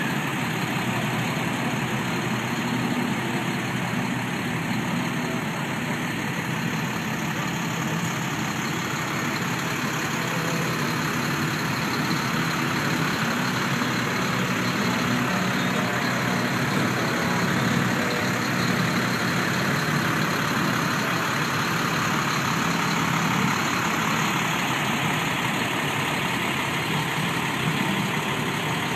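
Harley-Davidson police motorcycles' V-twin engines idling steadily.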